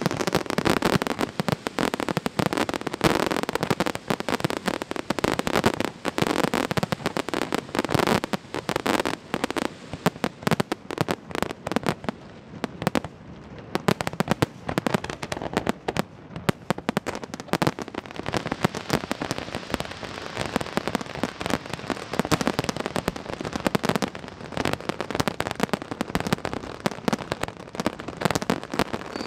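Fireworks display: a dense, continuous barrage of bangs and crackling as many shells burst in quick succession.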